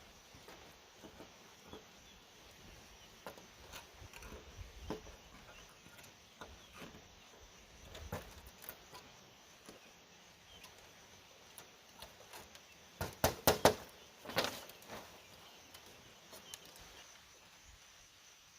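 Scattered light knocks and taps of bamboo being worked, with a quick run of four sharp strikes about two-thirds of the way through and one more just after, over a faint steady background hiss.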